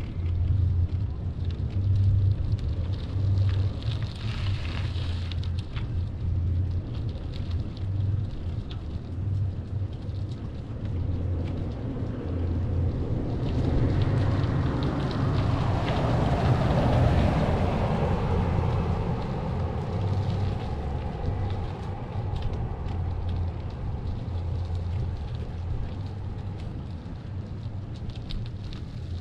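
Wind buffeting a bicycle rider's microphone, a gusting low rumble, with a louder rushing swell that builds and fades about halfway through.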